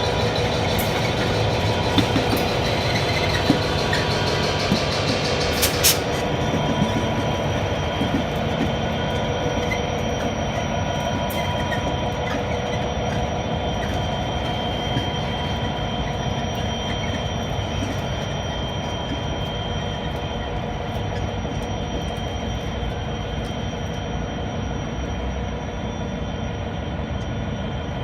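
A train running, with steady mechanical and wheel noise carrying several steady tones. A few sharp clicks come in the first several seconds, and the sound slowly fades over the rest.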